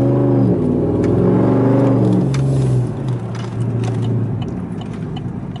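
Pickup truck engine running under way, its pitch rising and dropping as the truck speeds up and slows, then settling quieter from about three seconds in.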